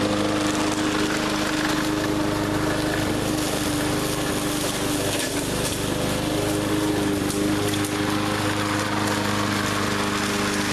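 A 20-inch walk-behind push mower's small single-cylinder engine running steadily under load while it is pushed through heavy brush, with scattered clicks and cracks from the cut brush. Its note wavers briefly about halfway through, then steadies again.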